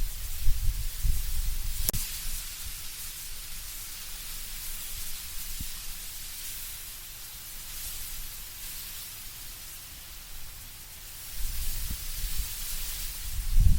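Wind blowing through trees, with a steady rustle of leaves. Low gusts rumble at the start, ease off through the middle and build again near the end, and there is a single sharp click about two seconds in.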